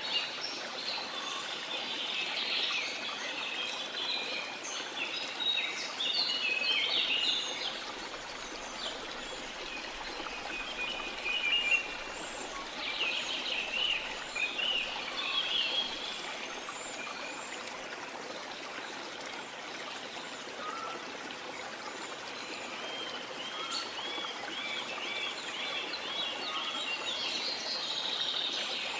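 Steady rush of running water, with rainforest birds calling over it in bursts of short chirps. Near the end one bird gives a quick run of repeated notes.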